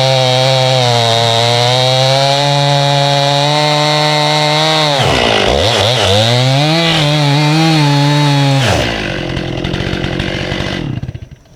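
Chainsaw running at full throttle cutting through a walnut log. About halfway through, its pitch dips and wavers. Near nine seconds it drops to idle, then shuts off just before the end.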